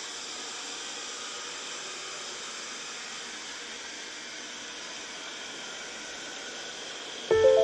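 A steady, even hiss that holds at one level throughout; music with clear notes comes in near the end.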